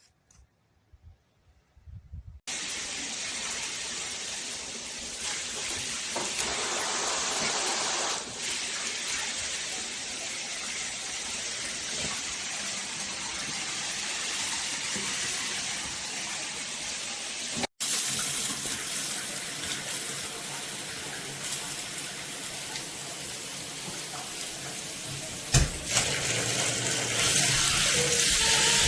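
Water spraying steadily from a handheld shower head, starting a couple of seconds in. It breaks off for an instant past the middle and resumes with a slightly different sound, with a single knock about three-quarters of the way through.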